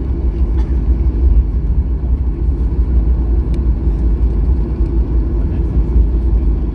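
Steady low rumble of an airliner cabin on the ground after landing, with a faint steady hum above it.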